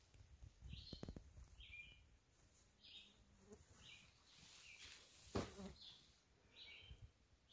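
Faint outdoor quiet with a bird calling short chirps about once a second. A few low thumps and one sharp click about five and a half seconds in.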